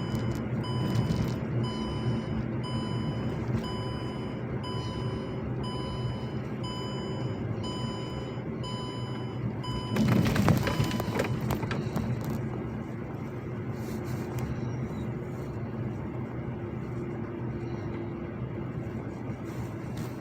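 A vehicle's reversing alarm beeps evenly, a little faster than once a second, over a low engine rumble. The beeping stops about nine seconds in. About a second later comes a louder burst of rushing noise, and then the engine carries on.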